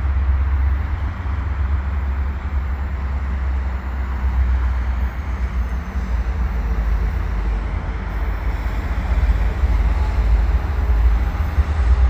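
Diesel locomotives of a freight train, a GE C44-9W and an EMD SD75I in the lead, rumbling as the train approaches. The low rumble grows a little louder near the end.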